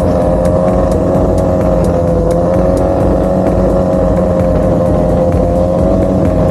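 Drag-racing motorcycle engine held at steady high revs, its pitch barely wavering.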